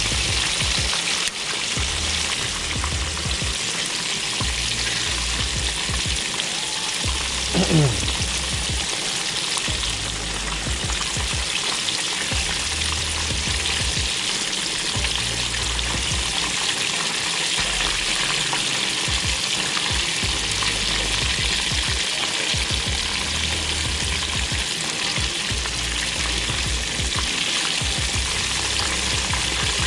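Striped bass pieces shallow-frying in hot oil in a skillet: a steady, loud sizzle, with tongs moving the pieces in the oil. A brief squeak falling in pitch cuts in about eight seconds in.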